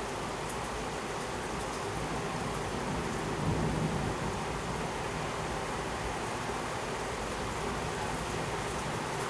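Heavy thunderstorm rain pouring steadily, with a brief low rumble about three and a half seconds in.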